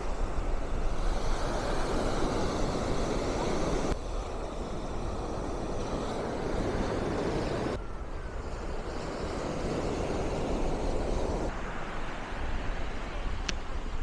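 Ocean surf washing and breaking, with wind rumbling on the microphone. The sound changes abruptly about 4, 8 and 11.5 seconds in.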